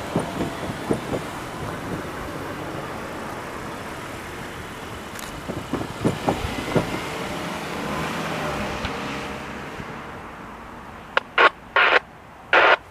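Steady rumble of a passing train, with scattered clicks in two clusters. Several short, loud bursts come near the end.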